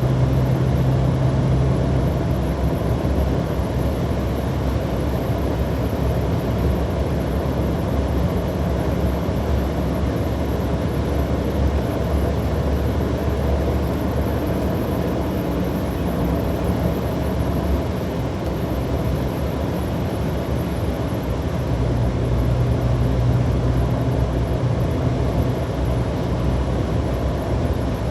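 Road and engine noise inside a moving car at highway speed: a steady rumble, with a low droning hum that fades about two seconds in and comes back around 22 seconds.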